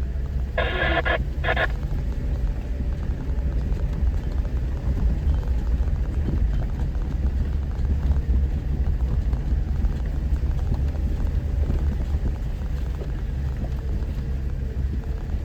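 Off-road 4x4 driving a mountain dirt trail: steady low engine and drivetrain rumble. About a second in, a short two-way radio transmission crackles over it.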